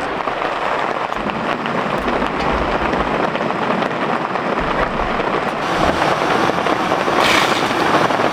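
Rain falling steadily, a dense even hiss that grows a little louder towards the end.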